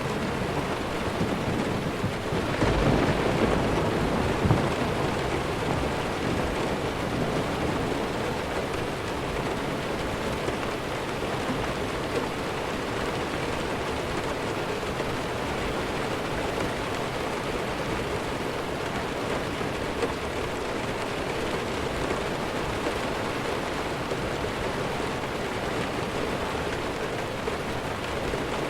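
Steady heavy rainfall with a low roll of distant thunder a few seconds in that dies away, leaving an even hiss of rain.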